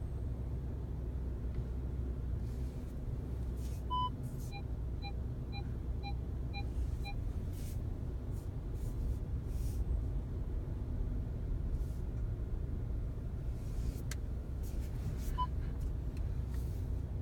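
Steady low rumble inside the cabin of a new Volkswagen Passat B8, with a short click from the steering wheel about 14 seconds in: the noise the owner is documenting. About 4 seconds in, an electronic tone is followed by six short beeps about half a second apart, and another single tone comes near the end.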